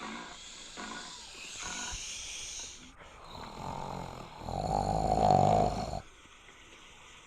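A big cat calling, growing loud about four seconds in and cutting off suddenly about six seconds in.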